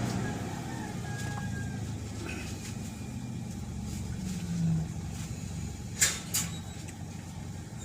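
Toyota Vios engine idling low, with the oxygen sensor plugged back in; the engine shakes at this idle, the RPM-drop fault being chased. Two short clicks about six seconds in.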